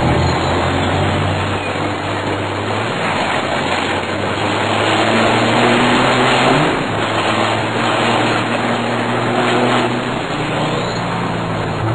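Mercedes-Benz Axor race truck's diesel engine heard from inside the cab, running hard under a loud, even roar. Its note holds steady and then shifts in pitch a few times, about halfway through and again near the end.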